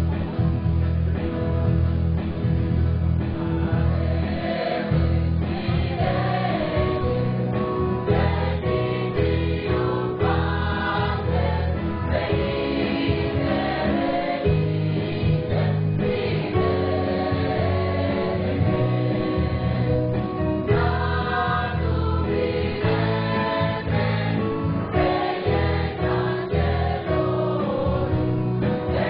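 Choir singing a Christmas medley, with instrumental accompaniment.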